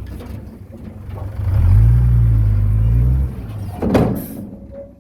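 Heavy diesel engine of earthmoving machinery revving hard under load for about two seconds, then dropping back, with a single sharp knock about four seconds in.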